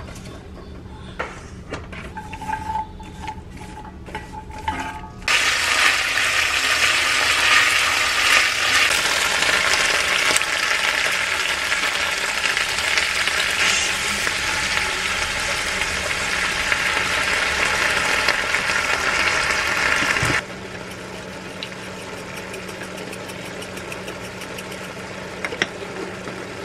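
Garlic scapes and sliced onion sizzling in hot oil in a cast-iron pot and stirred with wooden chopsticks, with a few light clicks at first. The sizzle turns loud suddenly about five seconds in and drops back to a quieter, steady sizzle about twenty seconds in.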